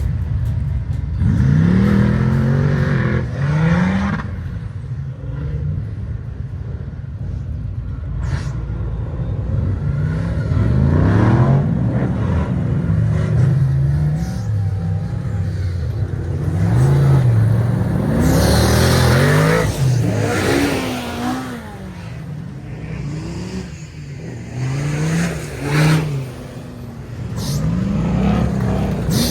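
Engines of several off-road race trucks revving hard and easing off over and over, their pitches rising and falling over one another as they drive the dirt and rock course.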